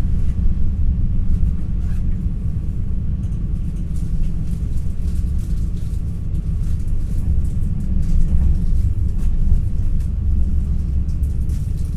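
Steady low rumble of an NS ICNG electric train running, heard from inside the passenger cabin, with faint scattered clicks and rattles.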